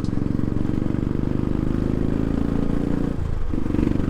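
Royal Enfield motorcycle engine running through an aftermarket tapered exhaust, with a steady pulsing thump that dips briefly about three seconds in and then picks up again.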